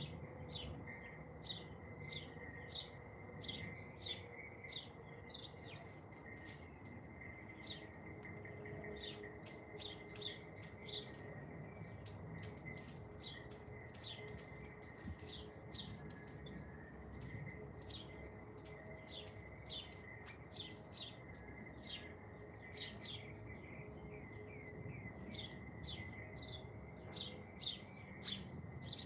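Small songbirds chirping: a continuous run of short, high chirps, a few a second, over a steady thin high tone.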